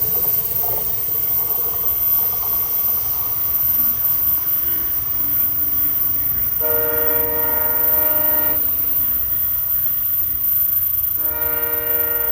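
Train horn sounding a chord of several notes in two blasts, the first about two seconds long just past the middle and the second starting near the end, over the steady rumble of the train running on the rails.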